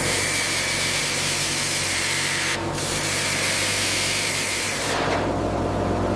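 Power sander grinding on the tank's steel hull: a loud hissing abrasion over a steady motor hum. It breaks off briefly about two and a half seconds in, then changes to a lower, rougher grind near the end.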